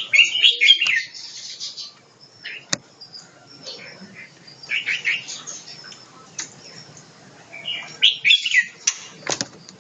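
A small bird chirping in three short bouts of quick high chirps: at the start, around the middle and near the end. A sharp click comes about three seconds in, and another near the end.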